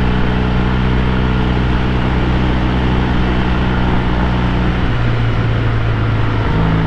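1968 Triumph T120 Bonneville's 650 cc parallel-twin engine running as the bike is ridden along the road. The engine note changes about five seconds in and shifts again near the end, as the throttle or gear changes.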